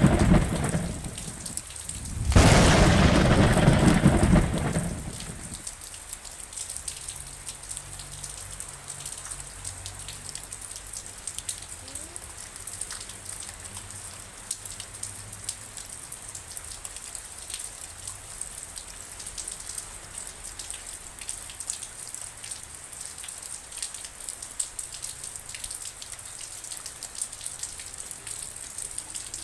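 Steady rain with drops pattering, and two loud rumbles of thunder at the start. The second rumble begins about two seconds in and dies away by about five seconds, leaving only the rain.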